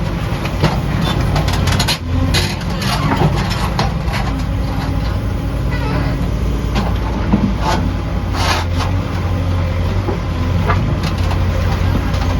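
Excavator diesel engine running steadily at high throttle while the machine works, with a few sharp clanks and knocks over the drone.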